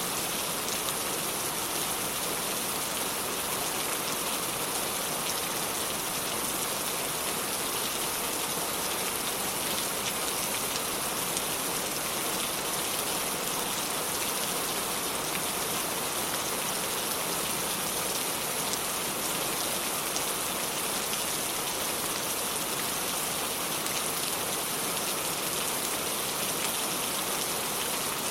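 Steady rain falling, an even hiss of dense drops that does not change.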